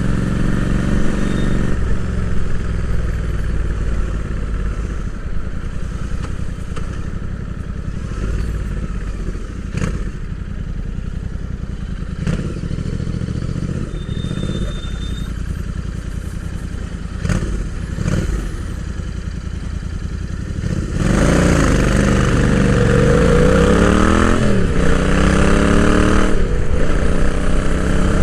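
Royal Enfield Interceptor 650's 648 cc parallel-twin engine heard from onboard, running at low, steady revs for about twenty seconds. It then gets louder as the bike accelerates, its pitch rising and dropping back with each gear change.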